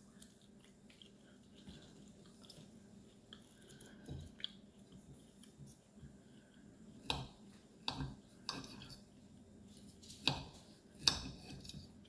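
Cutlery clicking against a plate during a meal: about six short, sharp clicks scattered through a quiet stretch, most of them in the second half.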